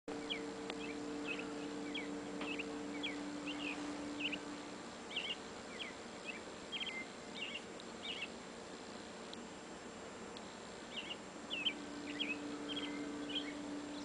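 Small birds chirping, with quick high chirps coming in runs of about two a second and a lull about two-thirds through. A steady low hum sits underneath at the start and again near the end.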